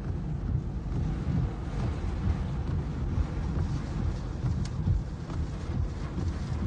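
Thunderstorm wind and rain: a steady rushing hiss with a low rumble that swells and falls in gusts.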